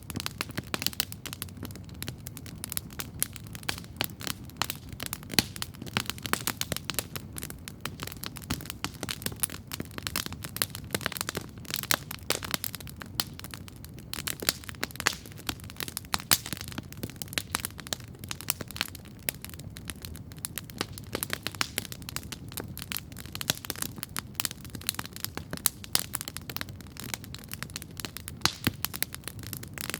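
Wood campfire crackling steadily, with frequent irregular snaps and pops over a low, steady rumble.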